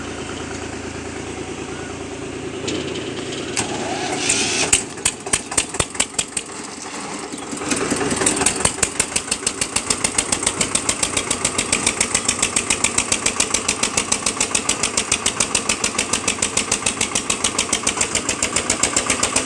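Eicher tractor's diesel engine. A steady running sound at first, then from about five seconds in a few loud, spaced chugs, and from about eight seconds a quick, even beat of firing pulses that holds steady to the end.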